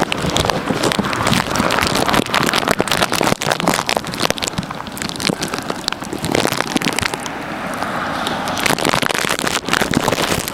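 Wind buffeting the camera's microphone in a snowstorm, heard as dense, irregular crackling that eases briefly a few times.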